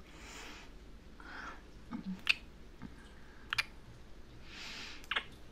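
A woman's soft, close-miked breaths with three sharp mouth clicks.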